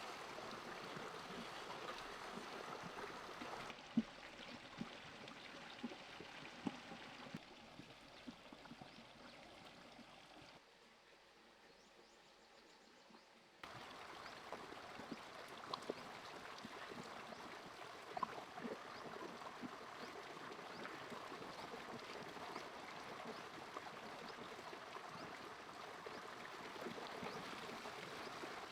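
Running water of a stream with scattered light clicks and knocks. The water sound drops away in steps toward the middle and then returns suddenly.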